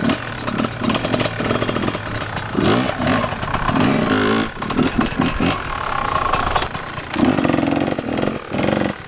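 Dirt bike engine revving in repeated throttle bursts, its pitch rising and falling, as the bike is throttled up into wheelie attempts.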